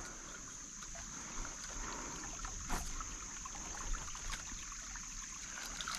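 Shallow creek water trickling steadily, with a couple of faint clicks.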